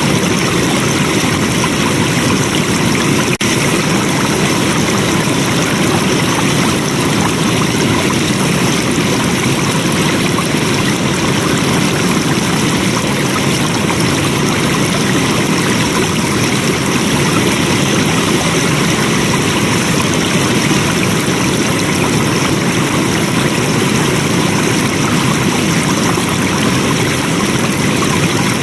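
Flowing water running steadily, a constant even rush like a stream, with one brief tick about three seconds in.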